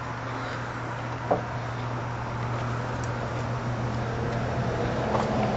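Car engine running with a steady low hum, and a faint click about a second in.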